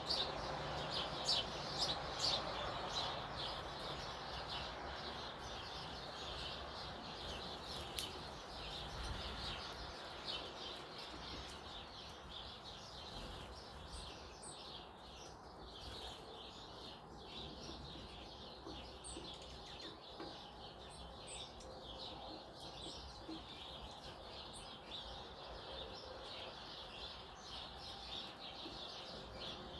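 Small wild birds chirping: a dense run of short, high chirps in the first few seconds, then scattered chirps through the rest.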